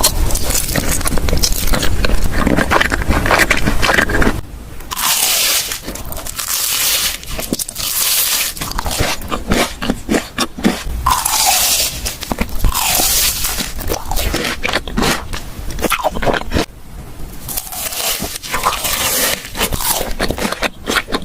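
Close-miked ASMR eating: crunchy bites and chewing, with crisp crackling bursts every second or two.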